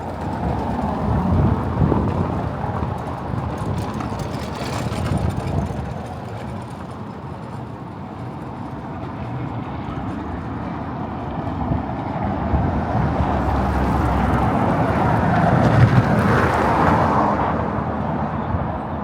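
City road traffic: motor vehicles passing by, with the sound swelling as one passes early on and again, louder, as another passes near the end.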